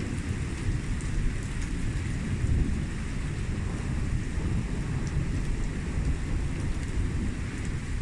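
Rain falling during a thunderstorm: a steady wash of rain with a continuous deep rumble underneath and faint scattered drop ticks.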